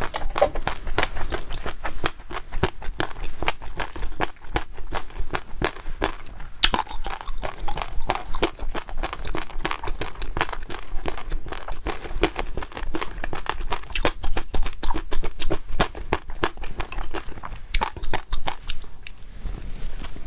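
Close-miked eating: chewing with dense, rapid crisp crunching and crackling clicks, steady throughout.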